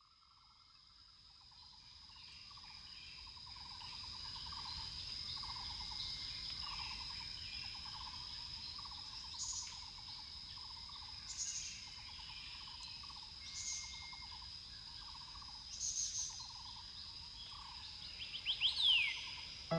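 Insects and birds: a steady high insect drone with repeated trilling, fading in over the first few seconds. Four bird calls come about two seconds apart from halfway in, and a few quick chirps follow near the end.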